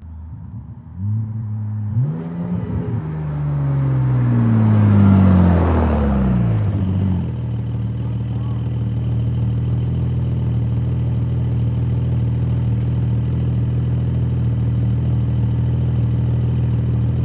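Porsche 718 GTS 4.0's flat-six through a resonated CEES aftermarket exhaust, revving up and passing close by. The engine's pitch falls as it goes past, loudest about five seconds in, and about seven seconds in it settles into a steady idle.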